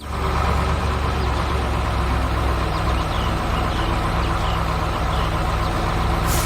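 Heavy construction-vehicle engine running steadily: an even, low drone.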